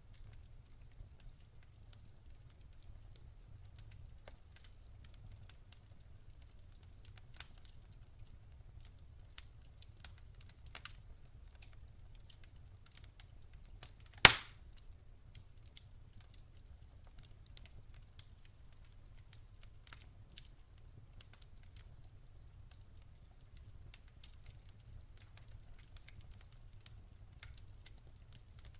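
Campfire crackling: scattered small pops and snaps from burning wood, with one loud sharp pop about halfway through.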